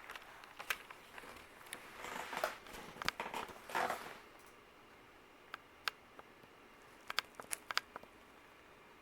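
Harbor Breeze ceiling fan running at medium speed, its freshly oiled motor giving only a faint steady hum. Scattered light clicks sound over it, with a short rustle about two to four seconds in.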